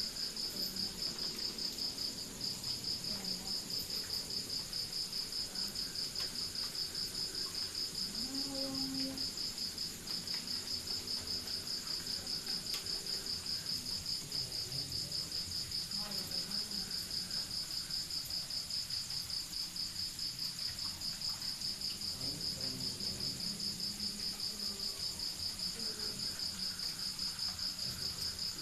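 Crickets chirping in a steady, rapid, even pulse, high-pitched and unbroken, with fainter higher insect trilling above.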